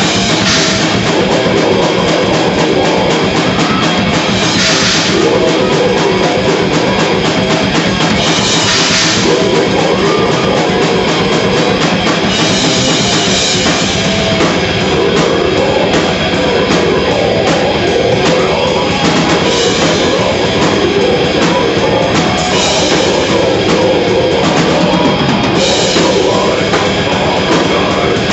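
Death metal band playing live: heavily distorted guitars over fast, dense drumming, with cymbal crashes several times.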